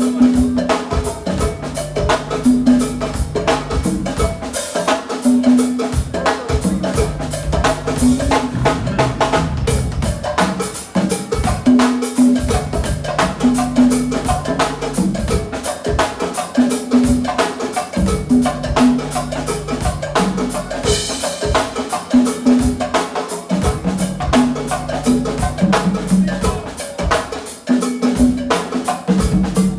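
Live band playing an instrumental groove: drum kit and percussion with cowbell hits over a repeating bass line.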